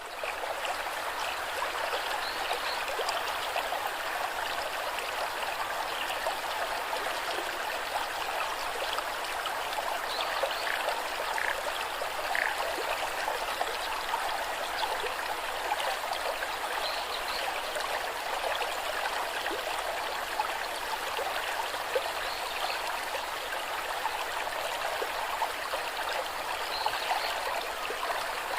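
A stream running steadily over rocks: even, continuous babbling water.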